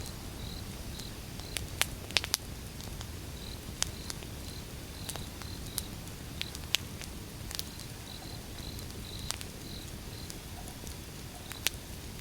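Wood fire burning: a steady low rumble with irregular sharp crackles and pops from the burning logs, a cluster of louder pops about two seconds in.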